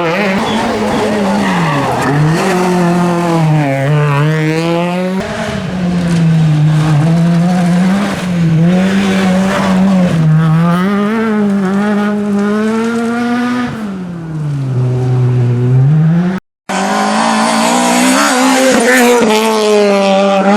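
R2B-class rally car engine revving hard on a stage, its pitch climbing and dropping again and again through gear changes and lifts of the throttle, with some tyre squeal. The sound cuts out briefly near the end and another stretch of revving engine follows.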